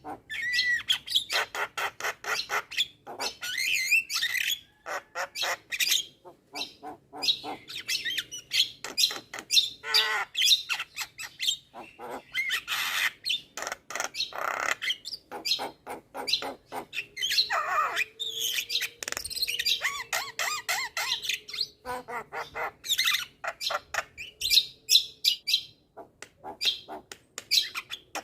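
Javan myna singing a long, rapid, varied song: fast chattering clicks and chirps mixed with harsh squawks and short whistles.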